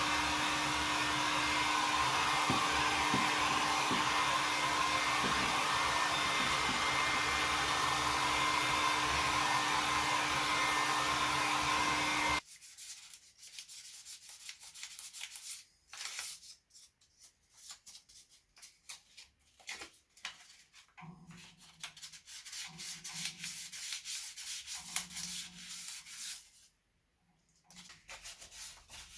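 A small electric tool runs with a steady whir for about twelve seconds and then cuts off abruptly. Irregular rubbing and scraping strokes follow: hand sanding of the belly pan.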